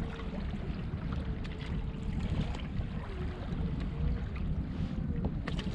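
Wind buffeting the microphone and water sloshing against a fishing kayak's hull, with a few light clicks.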